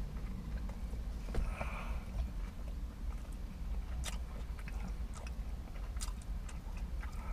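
A man biting into and chewing a mouthful of bacon burger on a soft pretzel bun, with scattered short wet mouth clicks over a steady low hum.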